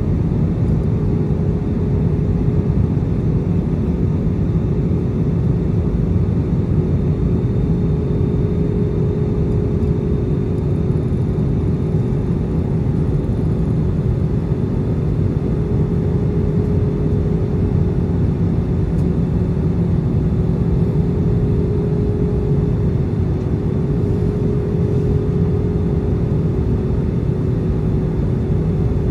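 Steady in-flight cabin noise of an Airbus A320: engine and airflow noise, with a steady hum on top.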